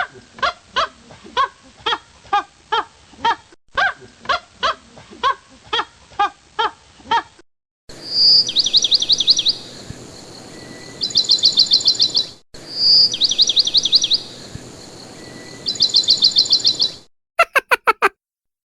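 Bird calls from several edited clips. First comes a long run of evenly repeated pitched calls, about two a second. Then a high whistled note leading into a fast trill is heard twice, and a brief burst of quick notes comes near the end.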